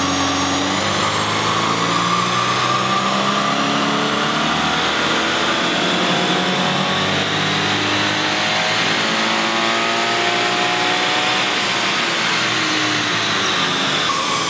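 Stock Toyota 86's 2.0-litre flat-four engine doing a full-throttle pull on a chassis dynamometer, its note climbing steadily in pitch over about eleven seconds as the revs rise toward redline, over a steady rushing noise.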